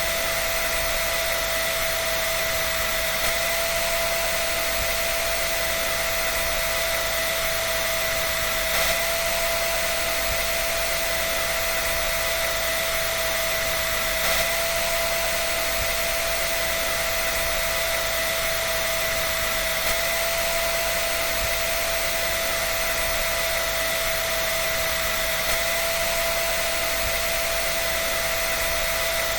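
Hair dryer running steadily: an even rushing hiss of air with a constant whine from its fan motor.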